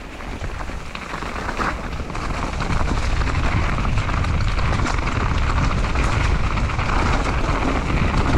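Wind rushing over an action camera's microphone, mixed with the rumble and hiss of mountain-bike tyres rolling over the trail. It grows louder over the first three seconds or so, then holds steady.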